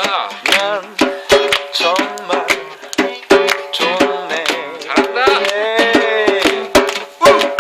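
Live acoustic song: a strummed acoustic guitar with a voice singing over it, and sharp hand-drum strokes from a djembe.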